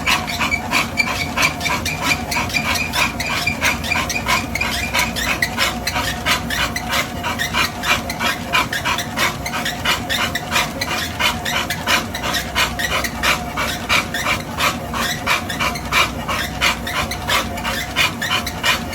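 A dog panting fast and evenly, about three to four breaths a second, as if worn out from exercise.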